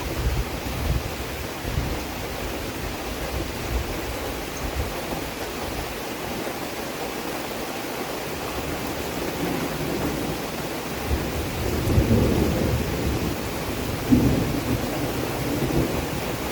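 Steady rain hiss, with low rumbling swells rising over it, the loudest about twelve seconds in and a short sharper one a couple of seconds later.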